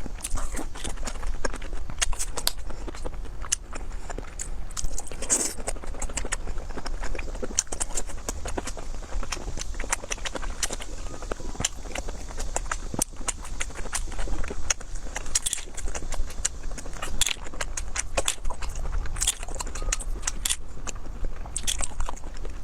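Close-miked eating: chewing and biting with many sharp, irregular crackling clicks, over a steady low hum.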